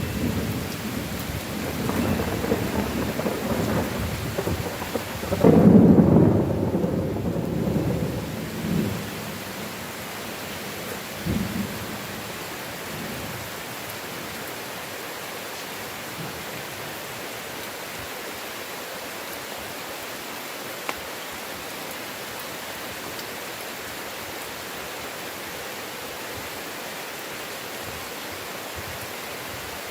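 Thunderstorm: a long roll of thunder over heavy rain, loudest about six seconds in and dying away by about nine seconds, with a short fainter rumble soon after. Then steady rain hiss.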